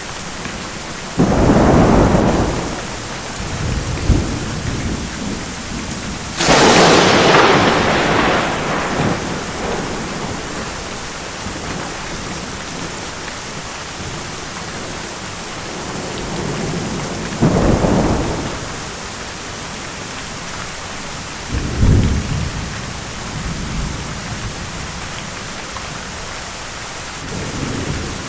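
Steady heavy rain with a thunderstorm overhead. Thunder cracks sharply and rumbles away four times: about a second in, about six seconds in (the loudest and sharpest, crackling high), and again near 17 and 22 seconds, with low rolling rumbles in between.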